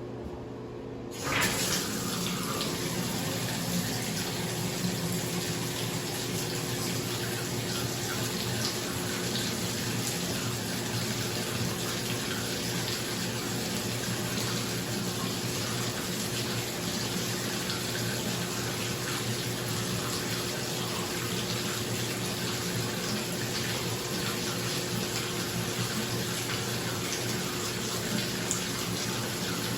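Bathroom exhaust fan humming steadily; about a second in, the bathtub tap opens and water starts gushing into the tub, then runs on steadily over the fan's hum.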